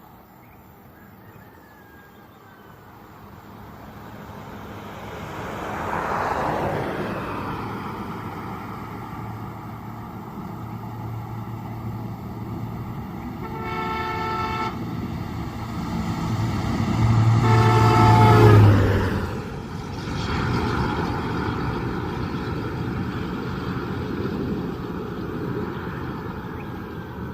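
Blue Bird All American bus coming past with its engine running, sounding its horn twice: a short blast about fourteen seconds in, then a longer one as it passes that drops in pitch at the end. Another vehicle passes about six seconds in.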